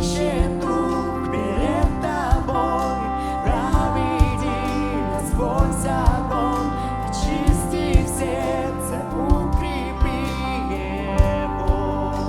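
Contemporary worship band playing an instrumental passage: a steady drum beat under sustained keyboard chords, with a bending lead melody on top.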